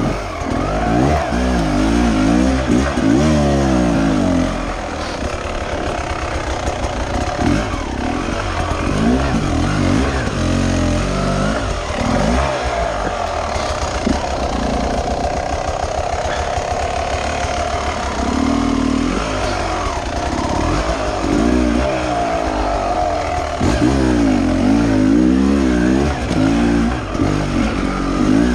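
Beta 300 RR two-stroke enduro motorcycle engine revving up and down over and over as the throttle is worked off-road. The revving is strongest in the first few seconds and again near the end, and steadier and lower in between.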